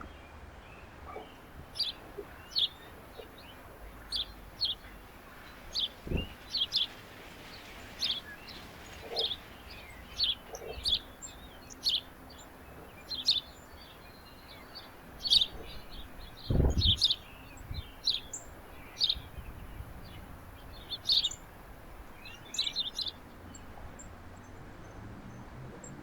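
Birds chirping: short, high chirps scattered throughout, often several in quick succession. Two low thumps, about six seconds in and about sixteen seconds in.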